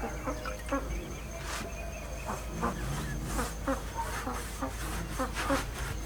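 Chickens clucking, in short calls with many short sharp clicks among them.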